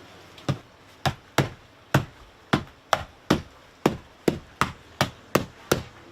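Screws being tapped out of a boat fridge door: a steady run of sharp taps, about two to three a second, starting about half a second in.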